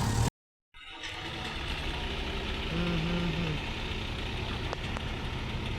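Diesel machinery engines running steadily as a backhoe loader loads tractor trolleys; the sound drops out completely for a moment early on and resumes. About three seconds in a short pitched note sounds over the engine noise.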